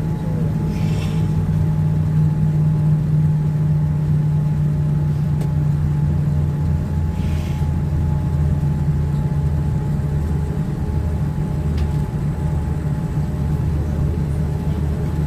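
Steady low rumble and hum inside a Boeing 787-9 cabin on the ground, with a thin steady whine above it. Two brief soft hisses come about a second in and about seven seconds in.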